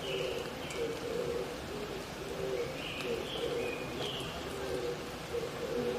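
Wild oriental turtle doves cooing in a repeated low phrase, with short higher-pitched calls from another bird, over a steady background hiss.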